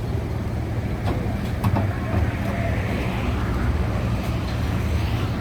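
Steady low engine rumble, with a few short knocks a little over a second in.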